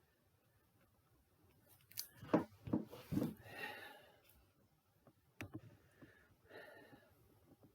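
A few sharp clicks and knocks, a cluster about two to three and a half seconds in and one more about five and a half seconds in, with faint rustling between them.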